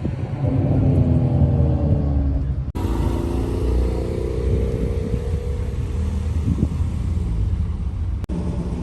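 Car engine running with a deep rumble and accelerating twice, its pitch rising each time; the first rise cuts off suddenly about three seconds in.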